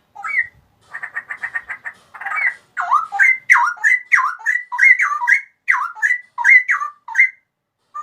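Straw-headed bulbul singing: a quick chattering run of short notes, then a string of loud fluty whistles that swoop down and back up again.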